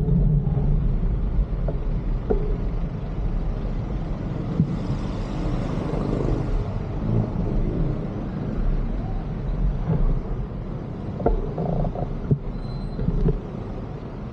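Street traffic heard from a moving bicycle: a steady low rumble of vehicle engines and road noise, with a louder whoosh of a passing vehicle about five seconds in and a few sharp knocks near the end.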